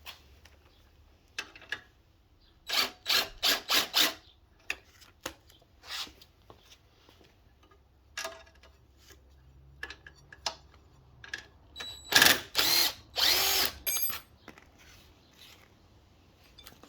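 Handheld power tool, a drill or driver, running in short bursts on the minibike frame: four quick bursts about three seconds in, then single ones, then longer runs near the end, with small clicks and knocks of metal parts being handled between them.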